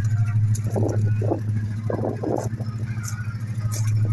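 Dodge 880's engine running at a steady idle, a low even rumble with a fast pulse. A few short muffled sounds come through about a second and about two seconds in.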